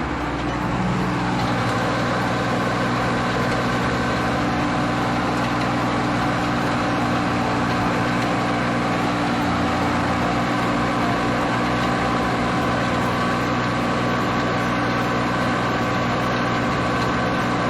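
Iseki Geas AT340 tractor's diesel engine running steadily under load as it pulls a wing harrow through a flooded rice paddy, heard from the driver's seat, picking up slightly about a second in.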